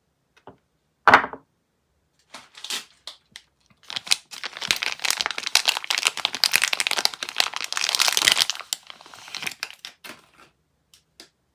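Soap packaging being unwrapped by hand: a sharp crack about a second in, then a few separate clicks, then several seconds of dense crinkling and tearing of the wrapper that tails off into scattered crackles.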